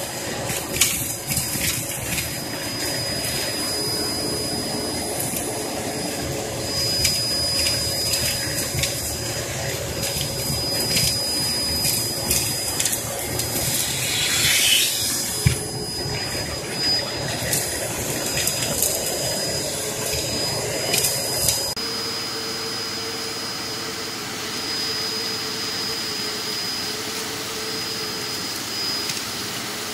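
Hoover Performer Pet upright vacuum cleaner running with a steady high whine, with crackles and clicks of fireplace ash and debris being sucked up. About two-thirds of the way through the sound changes abruptly and the crackling stops, leaving a smoother steady motor hum.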